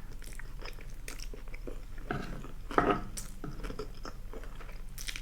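Close-miked chewing of a mouthful of grilled eel and rice, with many small wet mouth clicks. A louder mouth sound comes just before the three-second mark.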